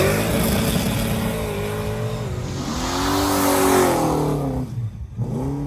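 Car engine revving hard, its pitch swinging up and down in repeated rises and falls, dropping off briefly near the end before one more rev.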